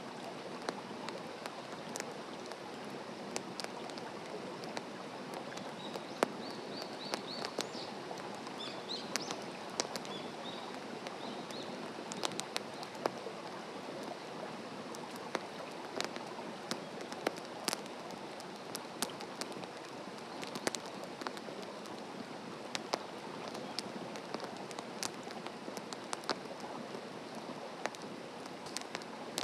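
Wood campfire burning, with irregular crackles and sharp pops over a steady hiss of the flames.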